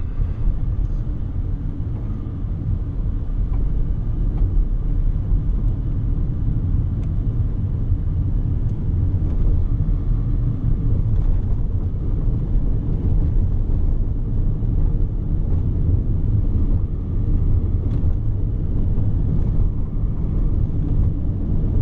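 Car driving along a road: a steady low rumble of road and engine noise, heard from inside the car.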